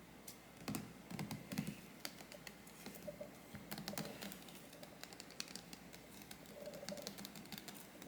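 Irregular light clicks and taps from small objects being handled, with a few soft thumps about a second in.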